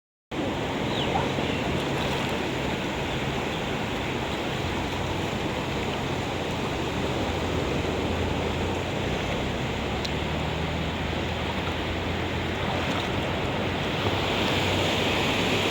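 Sea surf washing onto a sandy beach: a steady rush of waves, a little louder near the end.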